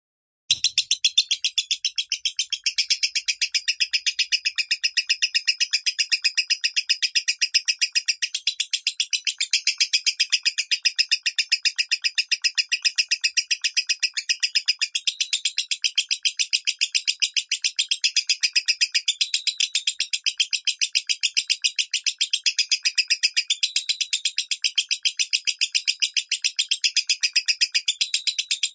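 Lovebird singing a long, unbroken stream of very fast, high chattering notes, the so-called 'minor' voice. A brief low thump sounds just as the song starts, about half a second in.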